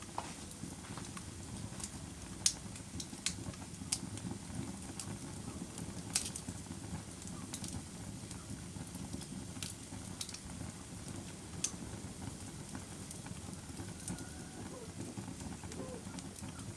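Wood fire burning in a fireplace: a steady low rumble of flames with irregular sharp crackles and pops, a few of them louder and several seconds apart.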